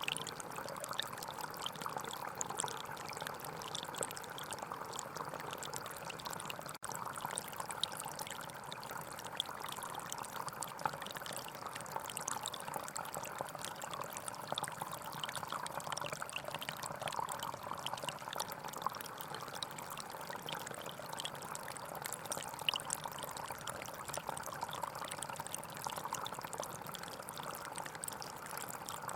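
Gentle forest stream flowing steadily, with a momentary dropout about seven seconds in.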